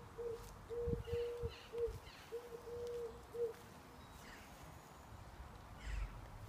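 A dove cooing: a phrase of seven low, even-pitched coos, short and long, over the first three and a half seconds. A few soft thumps come with the first coos.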